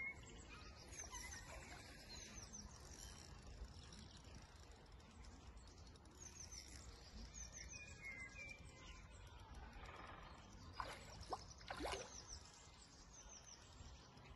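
Near silence outdoors: small birds chirping faintly now and then over a low steady rumble, with a couple of brief louder sounds about three-quarters of the way through.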